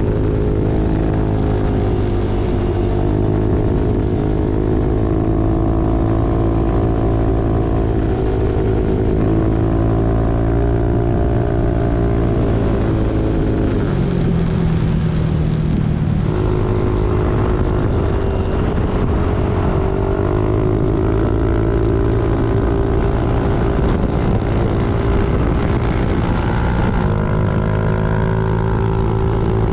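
Motorcycle engine running steadily under way. Its pitch sags around the middle, with a low hum for a couple of seconds, and then rises again as it picks back up.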